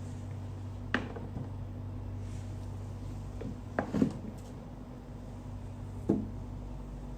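A few short knocks and clatters of small hard objects being handled and set down, about a second in, twice around four seconds and once near six seconds, over a steady low hum.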